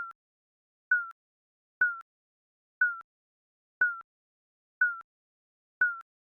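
Digital countdown timer beeping once a second, each beep a short single tone that dips slightly in pitch, with a faint click at its start and end.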